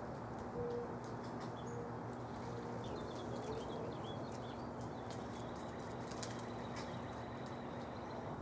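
Small birds chirping in short high notes over a steady low outdoor hum, with a thin high note held through the second half and a few short low calls in the first few seconds.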